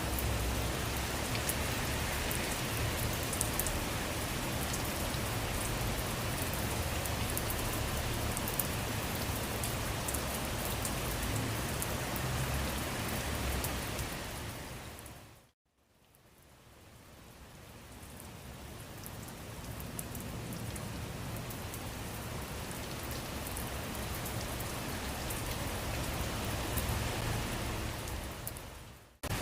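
Steady rain falling, with a low rumble underneath in the first half. The rain fades out to silence about 15 seconds in, then fades back in gradually over several seconds, thinner in the low end, and drops out briefly just before the end.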